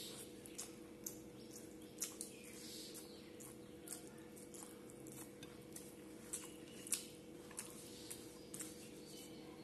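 Close-up mouth sounds of someone eating rice and curry with her fingers: scattered short wet smacks and chewing clicks at an uneven pace, over a faint steady hum.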